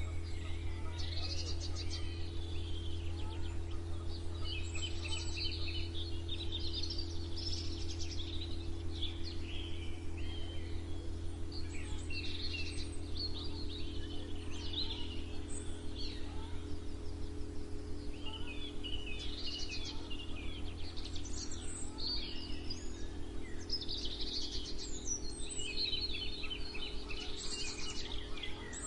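Several songbirds singing and chirping in a morning chorus, with overlapping warbled phrases coming and going, over a steady low hum.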